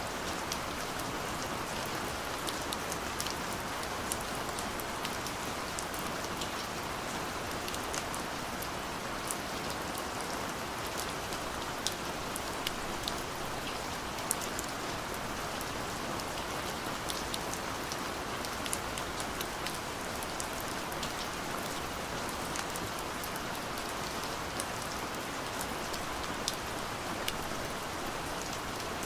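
Steady rain falling, an even hiss of rain with scattered sharp drop ticks on a surface.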